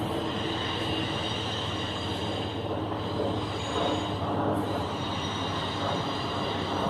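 Freight train of double-stack container cars running on the rails, a steady rolling rumble and rattle with faint steady high wheel squeal tones over it.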